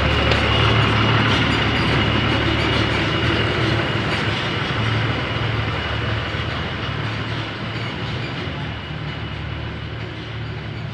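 A machine running steadily with a low hum, a hiss and a thin high whine, getting somewhat quieter in the second half.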